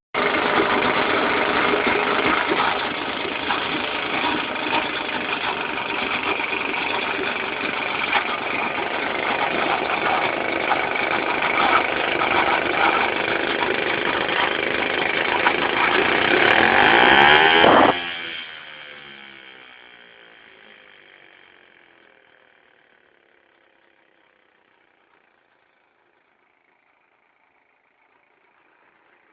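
British Seagull CPCL single-cylinder two-stroke outboard motor running on a test run, getting louder toward a peak, then stopping abruptly about two-thirds of the way through. After it stops, the sound falls in pitch and dies away over several seconds.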